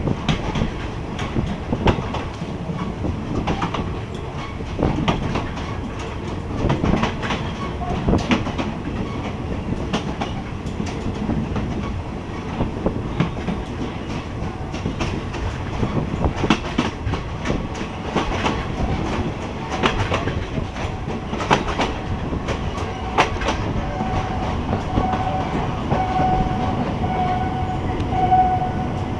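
Train running along the track, its wheels clattering irregularly over the rail joints in a clickety-clack over a steady rumble. A steady high tone rises out of the clatter in the last few seconds.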